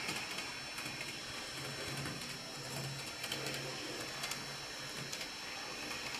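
Small electric motor of a model tram whirring as it runs a lap of the layout, with faint irregular clicks from its wheels on the track.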